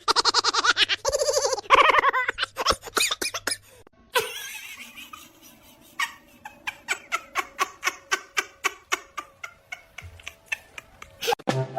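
A person laughing hard in rapid bursts, the laughter fading after about two seconds into quieter, broken giggles and breaths at about three to four a second.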